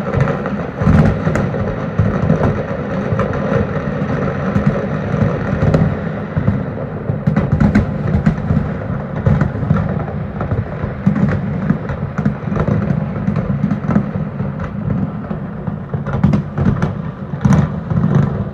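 Fireworks display going off continuously at a distance: a steady rumble of booms with many sharp cracks and pops throughout.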